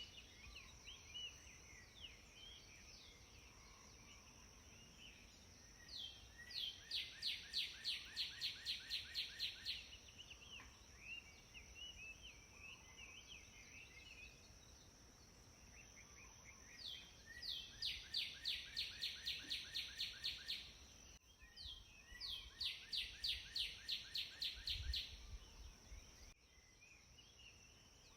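Birdsong in natural ambience: a bird sings a fast run of a dozen or so repeated high notes, about four a second, three times, between faint scattered chirps from other birds, over a steady high thin hiss.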